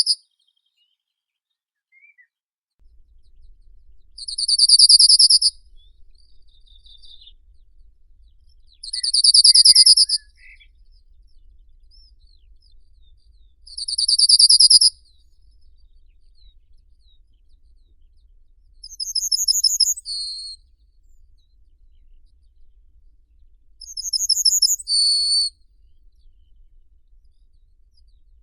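Songbird singing a trilled phrase of about a second, repeated every five seconds or so; about two-thirds of the way through, the phrase changes to a higher, quicker stuttering series of notes.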